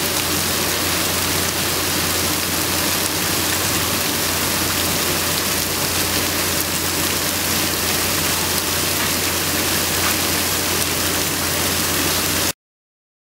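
Hailstorm: hail and rain pelting down in a dense, steady hiss dotted with tiny clicks of impacts. It cuts off abruptly near the end.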